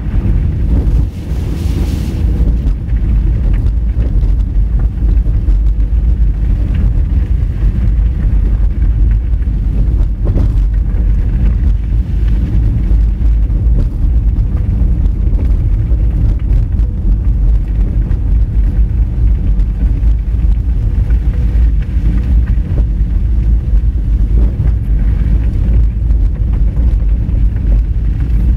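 Honda Fit driving on a rough dirt forest road, heard through a car-mounted camera: a steady, loud low rumble of tyres, suspension and engine, with a few short knocks, the sharpest about a second, two seconds and ten seconds in.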